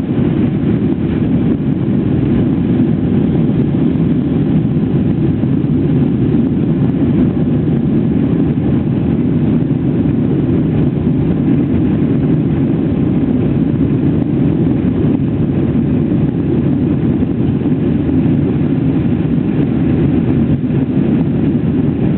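Boeing 777-300's twin turbofan engines at takeoff thrust: a steady deep rumble that holds the same level throughout.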